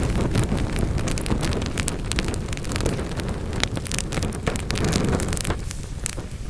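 Wood fire burning in a fireplace: a steady low rush of flames with frequent sharp crackles and pops from the burning logs. The rush eases a little near the end.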